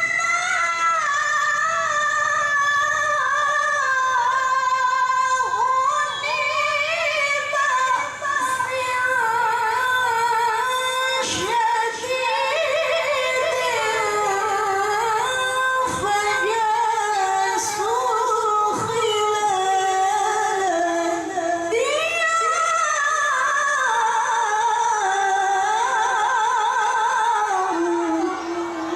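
A woman reciting the Quran in the melodic tilawah style, in a high voice. She holds one long, ornamented phrase with fast wavering turns, and its pitch sinks lower toward the end.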